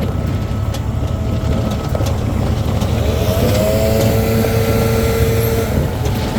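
Leaf blower running steadily, blowing leaves out of river rock. A higher tone rises about halfway through and holds for a couple of seconds.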